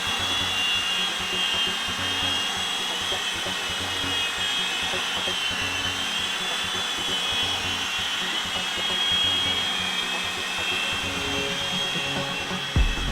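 Several Blade mCX2 micro coaxial helicopters hovering together, their small electric motors and rotors giving a steady high whine that wavers slightly in pitch.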